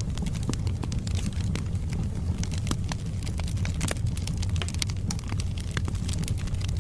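Wood fire burning in a fireplace: a steady low rumble of the flames with dense, irregular crackles and pops from the logs.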